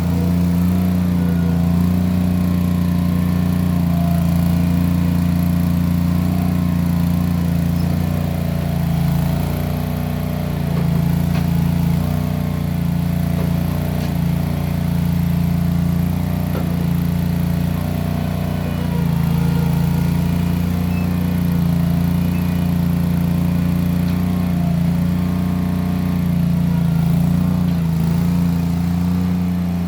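Case 1816 skid steer's engine running steadily through small round mufflers, its level swelling and easing a little as the machine works.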